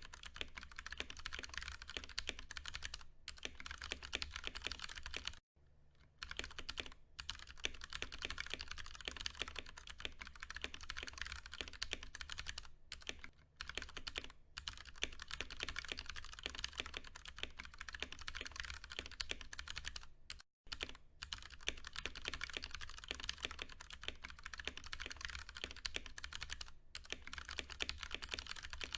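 Continuous fast typing on a Ducky One 2 Mini mechanical keyboard with Cherry MX Brown switches, a dense run of key clicks with brief pauses about five and twenty seconds in. A steady low hum lies underneath.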